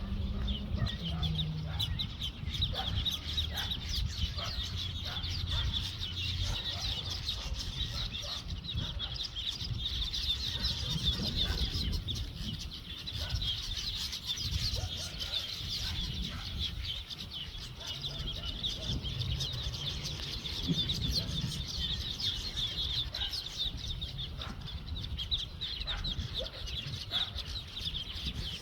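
Dense, continuous chorus of many birds calling and chattering together at a pond, high-pitched and unbroken, with scattered lower calls mixed in.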